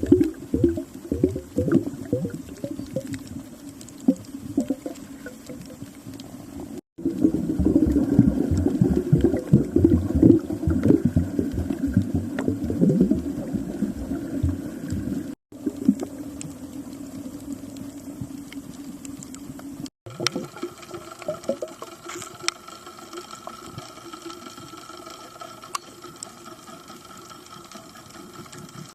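Underwater sound heard through a camera's waterproof housing: muffled bubbling and crackling water noise, loudest in the middle, with a faint steady hum in the last third.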